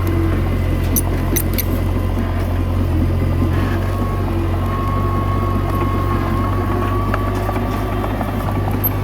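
Komatsu D21A bulldozer's diesel engine running steadily, with a thin whine through the middle and a few sharp metallic clicks about a second in.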